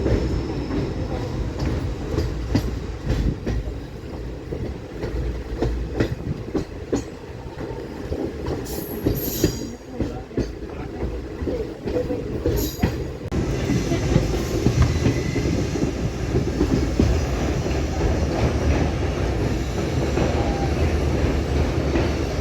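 Train rolling along with a steady low rumble and the clickety-clack of wheels over rail joints, heard from on board. Brief high-pitched wheel squeals come twice, about 9 and 13 seconds in. After the second squeal the running grows louder and denser.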